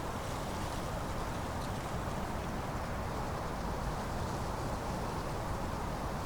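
Steady autumn wind blowing, with a faint rustle of dry leaves over it.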